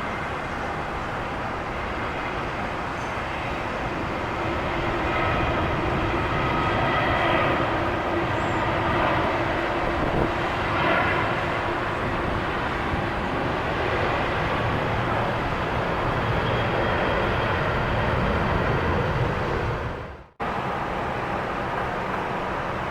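Airliner jet engines running as an aircraft passes: a broad rush with whining tones that swells about a quarter of the way in and holds. Near the end the sound drops out for an instant and comes back quieter.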